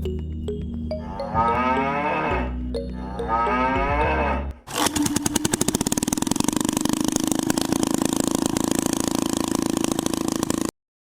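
Cow mooing twice over background music, then a fast, steady mechanical rattle for about six seconds that cuts off abruptly.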